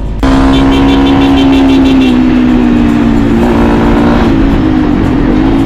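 Motorcycle engine running loud at steady revs while riding, its note easing slightly lower, then dipping and picking up again near the end. It starts abruptly about a quarter second in.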